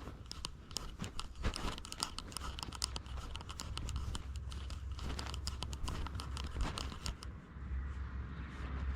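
Rapid scratching and crackling rustle close to a cat-worn camera, over a low rumble of the camera moving with the cat. The crackles thin out near the end.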